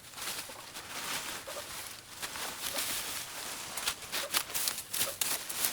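Rustling and crackling with irregular sharp clicks and snaps, which come thicker from about four seconds in.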